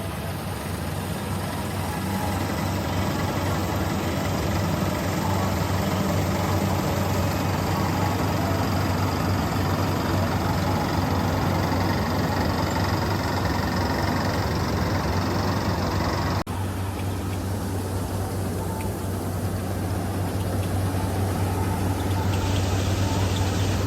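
Tractor engine running steadily with a strong low hum, with a brief dropout about two-thirds of the way through.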